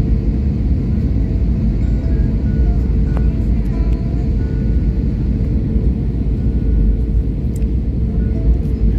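Steady low rumble of an airliner's cabin in flight, with faint short tones over it.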